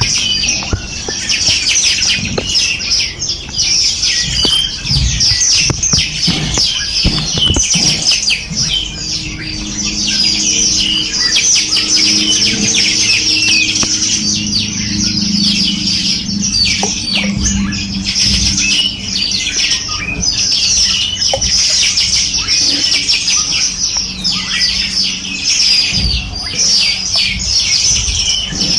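Dense chorus of many small songbirds chirping and trilling rapidly and continuously, with a low steady hum underneath for several seconds in the middle.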